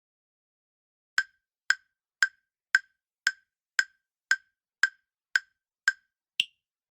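Countdown timer sound effect: eleven short, woody ticks, about two a second, the last one higher-pitched, counting down the time to answer a quiz question.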